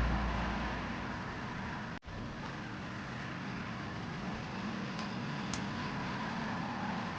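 Background music fading out, then a steady background hiss with a couple of faint ticks.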